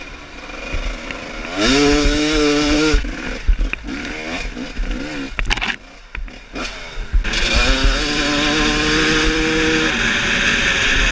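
Dirt-bike engine revved hard twice: the pitch climbs quickly and holds high for about a second, drops back to an uneven lower running, then climbs and holds high again for a few seconds before easing off near the end.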